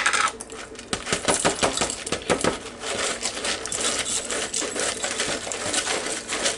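Dry crispy fried onions being handled and poured, a dense run of small crackles and rattles that goes on without a break.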